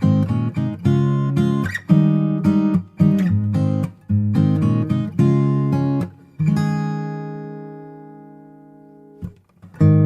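Background music: strummed acoustic guitar chords in a steady rhythm. About six and a half seconds in, one chord is left to ring and die away for nearly three seconds, then the strumming starts again near the end.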